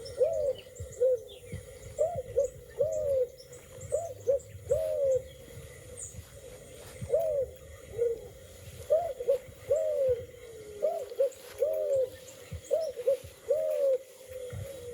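A dove or pigeon cooing close by: a long series of short, hooting coos that rise and fall, about two a second in uneven phrases.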